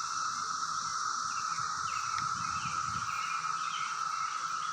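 Chorus of 17-year periodical cicadas singing in the woods: a steady, unbroken drone, with a few short higher chirps over it.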